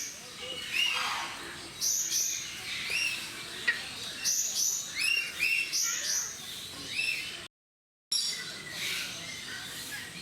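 Birds chirping in quick repeated clusters of short, high calls, with the sound cutting out completely for about half a second near the end.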